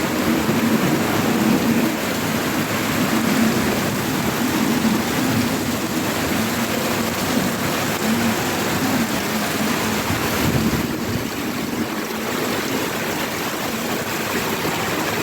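Heavy rain pouring steadily, a dense even hiss that does not let up.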